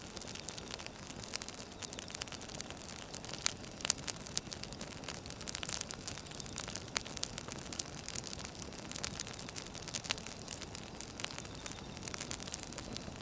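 Burning firewood crackling: irregular sharp snaps and pops over a steady soft hiss.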